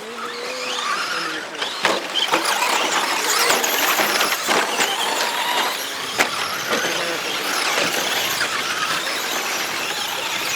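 Several radio-controlled 1/10 2WD short course trucks racing on a dirt track: their motors whine, rising and falling in pitch as the drivers throttle up and off, over a steady hiss of tyres on dirt. A few sharp knocks come through, about two, three and a half, four and a half and six seconds in.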